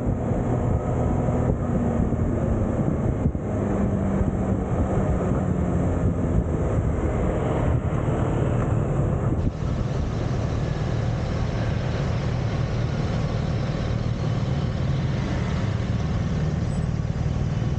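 Kawasaki ZX-6R's inline-four engine running under way, with road noise. About halfway through it turns steadier and lower as the bike slows into queued traffic.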